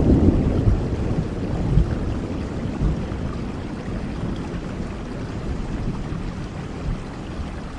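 Steady rain with a low rumble of thunder dying away over the first couple of seconds, the whole growing gradually quieter.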